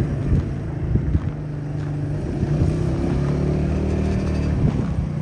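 A vehicle engine running steadily, with a low, even hum that shifts slightly in pitch partway through.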